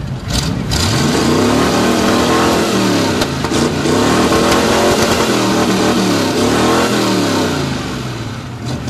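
1967 Chevy El Camino V8 revved hard through open exhaust headers, its pitch rising and falling several times; it measured 116 decibels.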